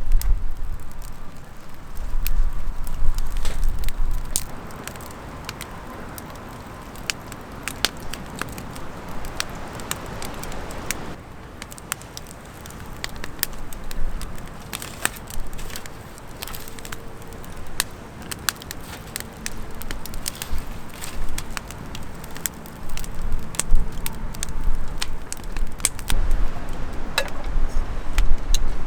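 Wood campfire crackling with many irregular sharp pops, and low rumbles at the start and again near the end.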